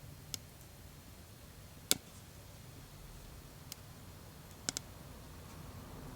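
Burning firewood crackling: a handful of sharp, scattered pops, the loudest about two seconds in and two in quick succession near the end.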